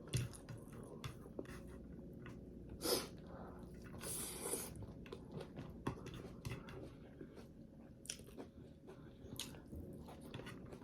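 Close-up mouth sounds of a person chewing food, with scattered wet smacks and clicks and a brief hiss about four seconds in.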